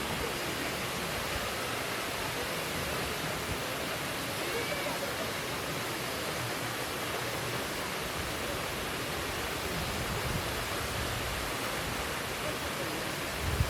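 Steady rush of the Lyngksiar Falls waterfall, an even hiss of falling water that holds a constant level, with a brief low bump near the end.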